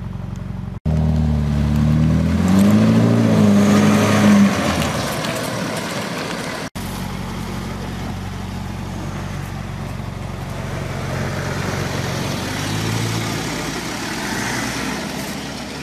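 Hamann Tycoon EVO BMW X6 M's twin-turbo V8 idling, then revved, its pitch rising over a few seconds to the loudest point, then running at low speed as the car pulls away, with two abrupt cuts in the sound.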